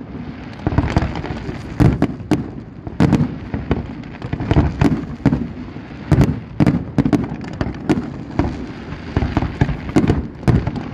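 Fireworks display: a dense, irregular barrage of aerial shells launching and bursting, several bangs a second.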